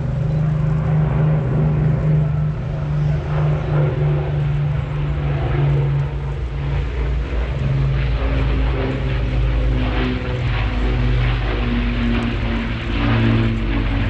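Supermarine Spitfire's V12 piston engine running as the fighter flies its display, the engine note shifting in pitch in the second half as it passes.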